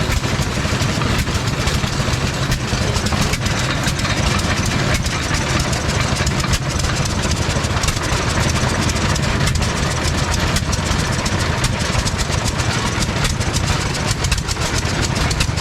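An engine running steadily at idle, with a faint knock roughly once a second.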